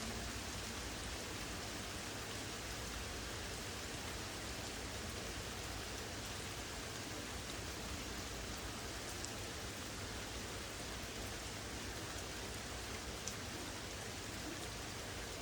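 Steady rain from a thunderstorm, an even hiss with a few faint drop ticks now and then.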